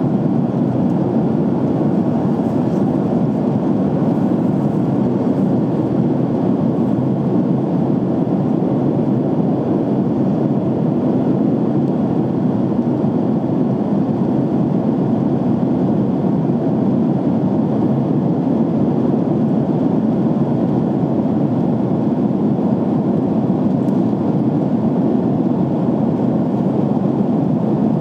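Steady cabin noise of a jet airliner in flight: an even, low rush of airflow and engines that does not change.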